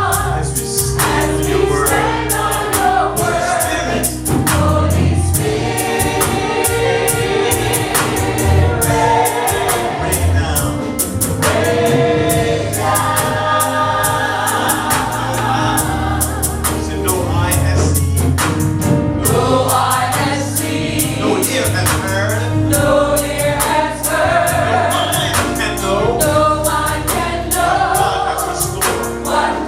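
Gospel choir singing a worship song over a band, with a steady beat and prominent bass.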